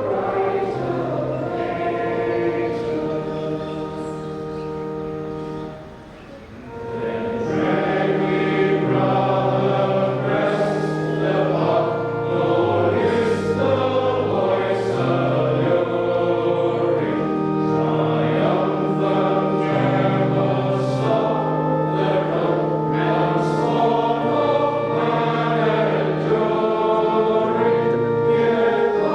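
A choir singing a hymn, with long held chords, and a brief break between phrases about six seconds in.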